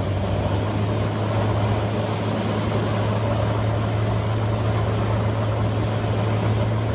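An engine running steadily, a constant low hum over a background rush.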